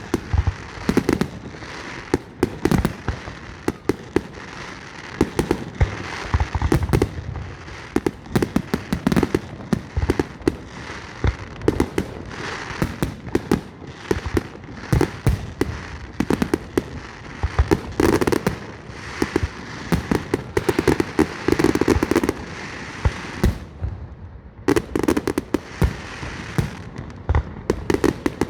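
Aerial fireworks display: shells bursting in rapid, overlapping bangs and crackles, with a brief lull about three-quarters of the way through.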